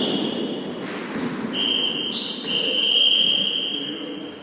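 A whistle sounding high steady notes: a short note at the start, then a long held note from about a second and a half in, briefly jumping higher in the middle, over the background noise of a hall.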